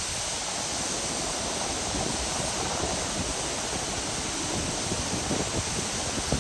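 River water rushing steadily, a continuous even noise.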